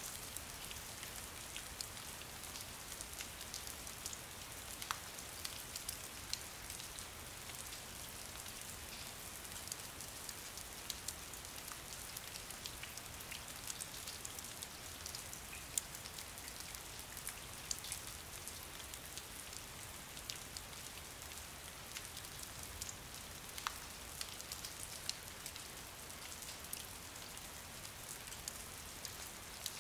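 Steady rain falling: a constant hiss with many scattered individual drops ticking through it.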